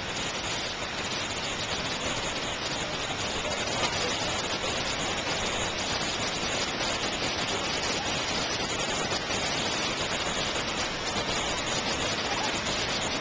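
Torc Waterfall's water pouring and splashing in a steady, unbroken rush.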